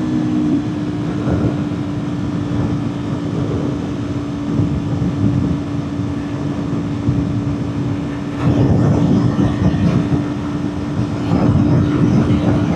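Kawasaki Ninja 400 parallel-twin engine cruising at a steady highway speed, a constant drone under heavy wind rush, with two louder surges of rushing noise about eight and eleven seconds in.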